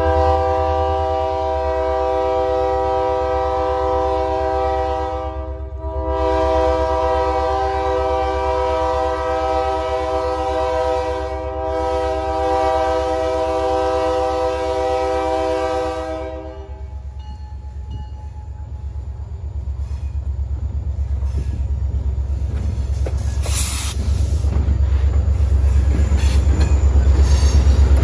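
A diesel locomotive's air horn sounds three long blasts, a chord of several notes, the last ending about 16 seconds in. Then the low rumble of the approaching locomotives grows louder, with a rhythmic clatter of wheels over the rail joints near the end.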